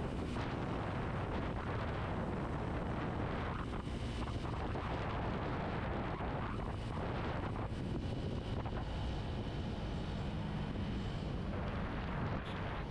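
A 250 cc naked motorcycle's engine running steadily while riding, with wind rushing over the microphone.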